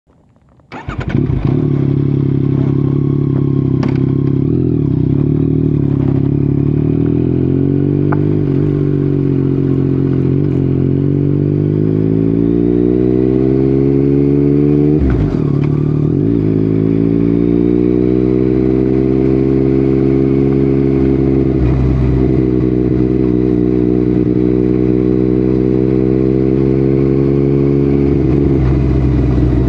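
Yamaha MT-09's three-cylinder engine through an Akrapovic exhaust, heard while riding. It comes in suddenly about a second in, pulls with slowly rising pitch, dips sharply halfway through as at a gear change, then settles to a steady cruise.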